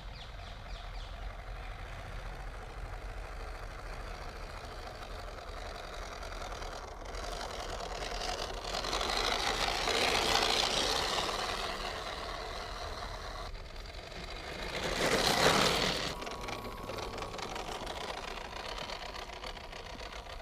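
Electric motor and three-speed gearbox of a vintage Tamiya Hilux 4x4 RC pick-up truck whining as it drives, growing loud twice as it comes close: a longer swell about halfway in and a shorter, louder one later.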